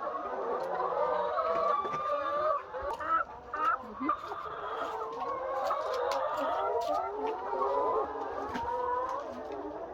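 A large flock of laying hens clucking and calling together, many calls overlapping, with a few sharp clicks.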